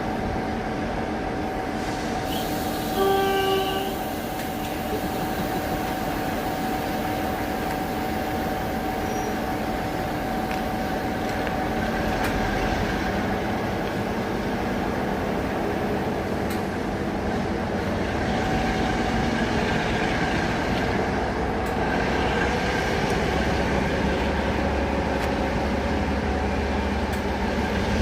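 A train running, with a steady rumble that grows louder and deeper in the second half. A brief horn-like tone sounds about three seconds in.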